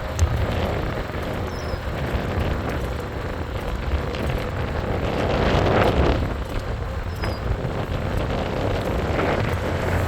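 Wind rushing over the microphone with road noise from a moving e-bike, a steady rumble that swells about five to six seconds in.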